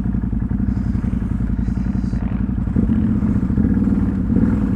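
ATV engine running steadily at low revs, a little louder from about three seconds in.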